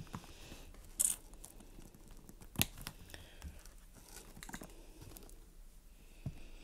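Crinkling and rustling of food packaging as a crunchy taco is handled, with a short burst of crinkling about a second in and a sharp click a little later.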